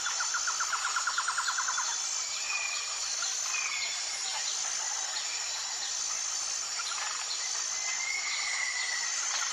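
Jungle ambience: a steady high insect chorus with a fast pulsing trill in the first two seconds and scattered short bird whistles, one longer drawn-out whistle near the end.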